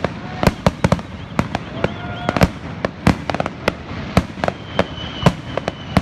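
Fireworks going off in a rapid, irregular string of sharp bangs, often two or three close together, with short whistling tones between them. A thin, steady high whistle starts about four and a half seconds in.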